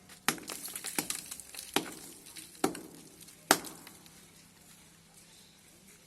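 Hard objects knocking and clattering during plumbing work: five sharp knocks, under a second apart, in the first three and a half seconds.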